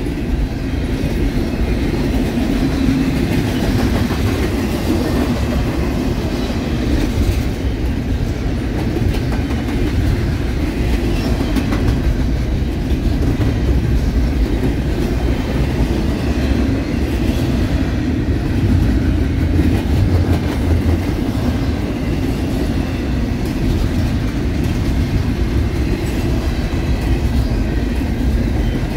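Double-stack container train's loaded well cars rolling steadily past at close range: a continuous loud rumble of steel wheels on the rails, with scattered clicks from the wheels passing over rail joints.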